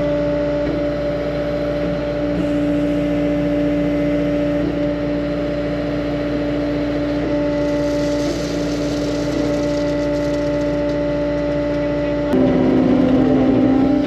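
Construction machine engine running steadily at high speed. About twelve seconds in, it drops slightly in pitch and gets louder, as if pulling under load.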